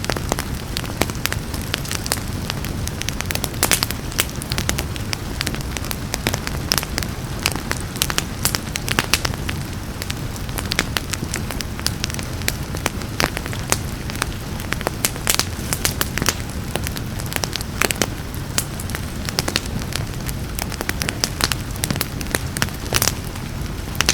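Wood fire crackling and popping with many irregular sharp snaps, over a steady low rumble of burning and a soft hiss of rain.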